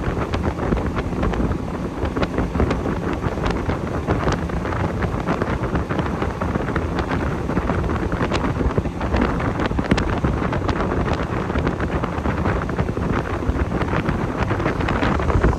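Wind buffeting the microphone on a motorboat running across open water, over the steady noise of the boat's motor, with frequent short knocks through it.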